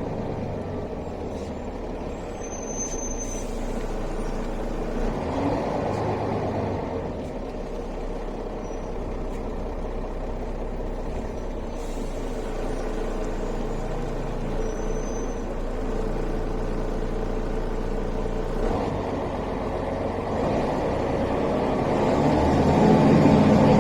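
Mercedes-Benz O405 city bus's diesel engine running steadily under way, rising in level and pitch near the end as the bus picks up speed.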